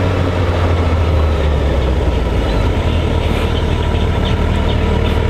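Motorcycle engine running steadily, a low, even hum.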